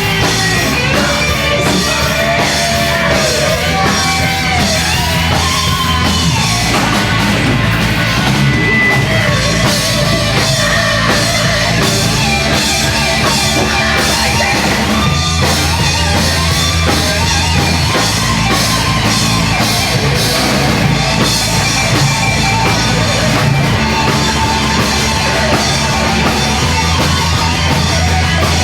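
A band playing loud, heavy rock in the post-hardcore/screamo vein: pounding drum kit, distorted guitars and a bass line that shifts every few seconds, with wavering guitar bends or voice in the first few seconds.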